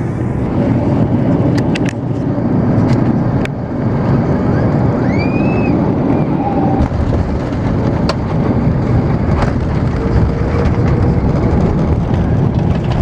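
Airbus A330 cabin noise: a steady, heavy rumble of the jet engines and airflow, with a few sharp knocks and rattles.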